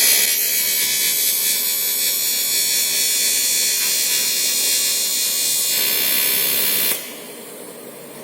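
AC TIG welding arc on aluminium, a steady loud buzz that cuts off about seven seconds in.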